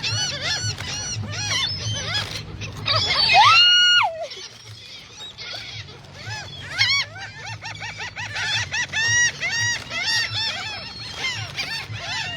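A flock of seagulls calling over one another in many short, rapid, repeated cries. About three and a half seconds in, one loud held high cry, rising into a steady note and then falling off, stands out above the rest.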